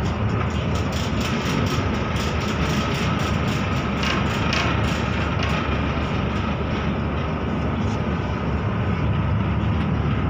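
Steady running noise inside a moving electric train carriage: a low rumble of wheels on rails with a faint steady whine over it.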